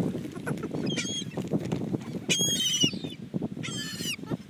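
Seagulls calling: several short, high squawks a second or so apart, over a steady low rush of wind or surf.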